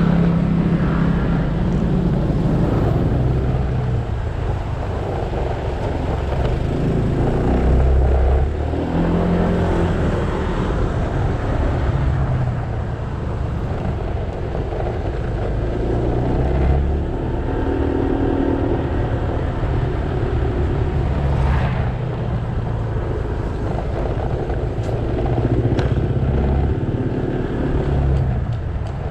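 Motorcycle engine running under way, its pitch rising and falling with the throttle, over steady wind and road noise.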